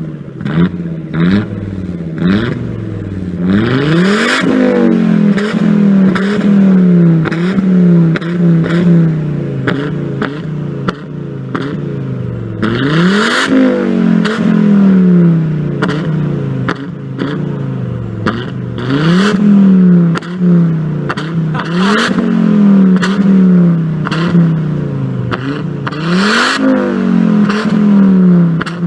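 A car engine driven hard, revving up sharply again and again and dropping back between, with frequent sharp cracks and pops over the engine note.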